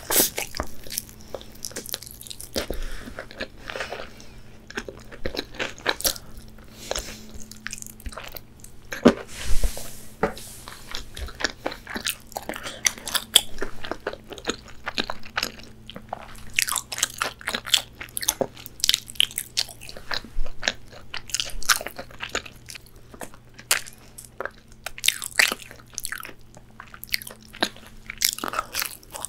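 Close-miked biting and chewing of crispy-coated KFC fried chicken: the breading crunches and crackles in many quick, irregular bites and chews.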